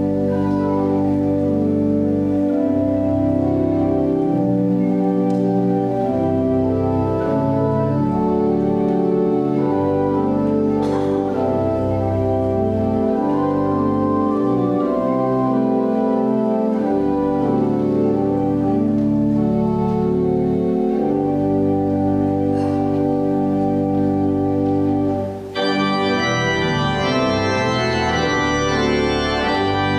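Church organ playing an offertory: sustained chords over held bass notes. About 25 seconds in there is a brief break, and the organ comes back with brighter, higher stops added.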